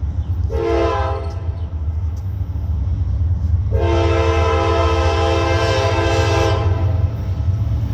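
Diesel locomotive's multi-chime air horn sounding a short blast, then a long blast of about three seconds, over the steady low rumble of the train.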